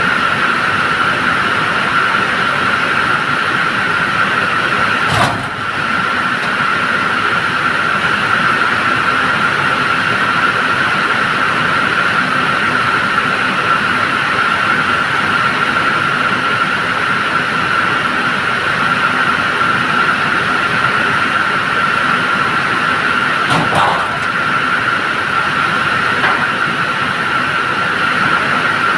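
A truck running: a steady, loud mechanical din with a constant high-pitched whine, broken by a brief click about five seconds in and another later on.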